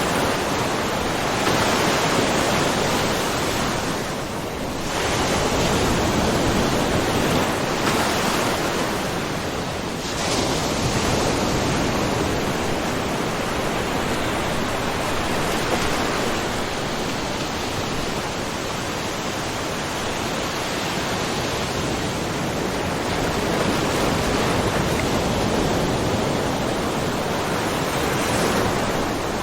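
Small ocean waves washing and splashing into a rocky cove: a continuous rush of surf that swells and eases every few seconds.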